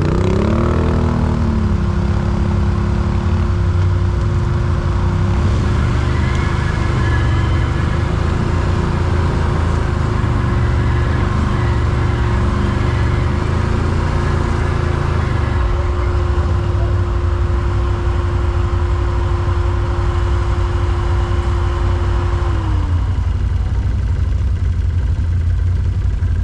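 Quad bike (ATV) engine running under way, with a heavy low rumble; the engine revs up in the first second, holds a steady note, and eases off about four seconds before the end.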